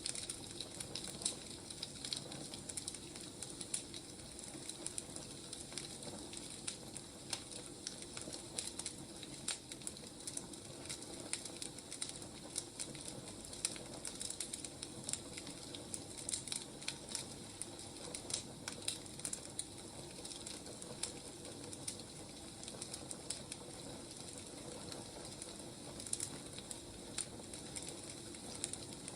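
Burning firewood crackling steadily, with frequent small pops and snaps.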